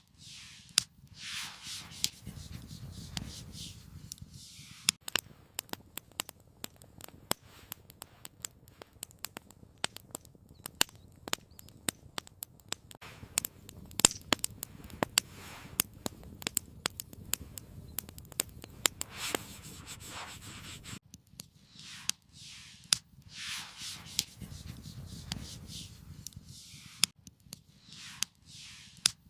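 Wood campfire crackling and popping, with many sharp irregular pops, and now and then a soft whooshing rush of a second or two.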